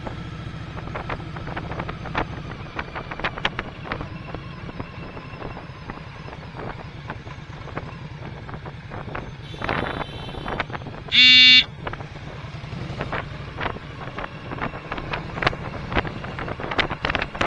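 Motorcycle engine running steadily on the road, with wind buffeting the microphone and scattered knocks. About eleven seconds in, a loud vehicle horn beeps once, briefly.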